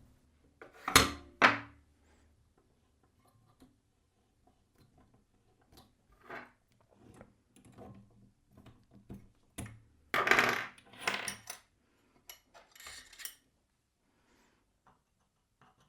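Knocks and metallic clinks of tools and a workpiece being handled at a workbench. There are two sharp knocks about a second in and a busier clatter about ten seconds in, with no drill motor running.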